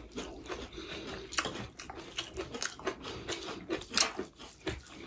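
Close eating sounds: chewing with wet mouth clicks and smacks, the sharpest about a second and a half in and again near four seconds.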